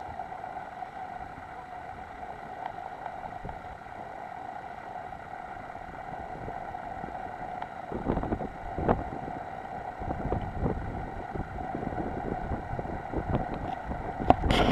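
Wind gusting against the microphone, coming in strongly about halfway through, over a steady pitched hum, with a few sharp knocks near the end.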